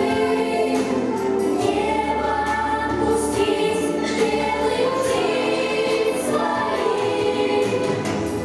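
Children singing a song together in chorus over instrumental accompaniment.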